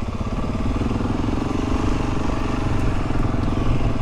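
Motorcycle engine running steadily at low speed, a low pulsing note that grows slightly louder.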